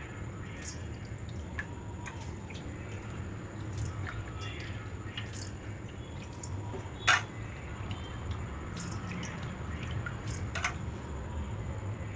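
Water dripping and sloshing as black sesame seeds are swirled and skimmed in a vessel of water, washing them so the stones and grit sink to the bottom. Scattered small drips and splashes over a steady low hum, with one sharper tick about seven seconds in.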